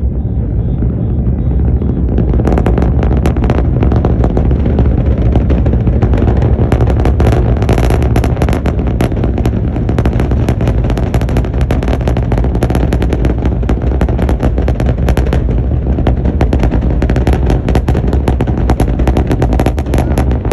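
SpaceX rocket engines during launch: a loud, continuous deep rumble, joined about two and a half seconds in by dense crackling that carries on to the end.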